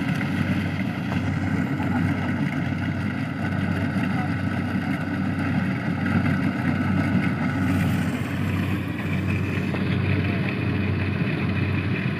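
Small engine of a rice-harvesting machine running steadily, a continuous drone whose higher tone changes about eight seconds in.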